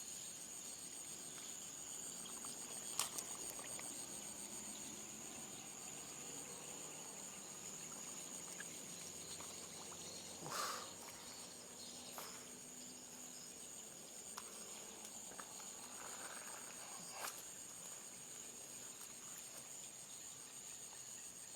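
Steady high-pitched chorus of night insects such as crickets, with a few short sharp knocks scattered through it.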